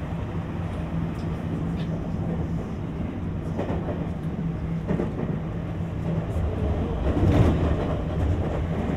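JR West 225-5000 series electric train running at speed, heard from inside the car. A steady hum and rail noise, with a few wheel clacks over rail joints; the loudest comes about seven seconds in.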